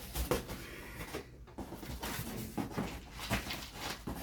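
Cardboard box and packaging being handled during unboxing: rustling with a few soft knocks scattered through.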